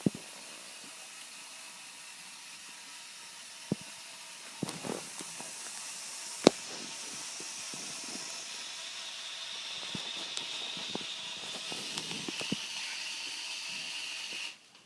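Small electric motors of a remote-controlled LEGO truck running with a hissing whine that grows stronger in the second half, with a few sharp clicks and knocks. The sound cuts off suddenly near the end.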